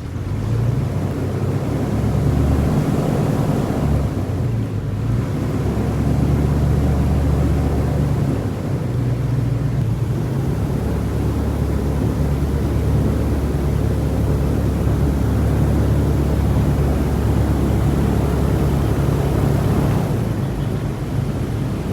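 Airboat's engine and large air propeller running steadily with a low hum, rising in level about half a second in.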